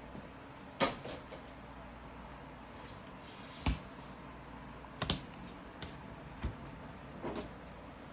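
Scattered sharp clicks and light knocks, about seven of them at uneven intervals, from hands working on a laptop.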